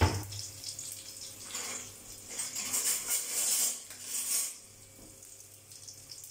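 Garlic and green chillies frying in hot ghee in a small steel kadai, sizzling and spluttering in bursts for a few seconds, then settling to a faint sizzle. A sharp knock of a utensil at the start.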